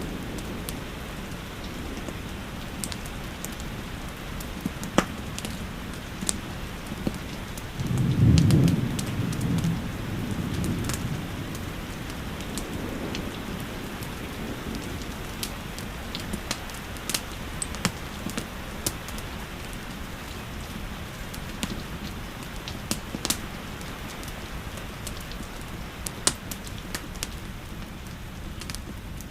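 Steady rain with the crackle and pop of a wood fire scattered throughout. About eight seconds in, a low rumble of thunder swells for two or three seconds and is the loudest sound.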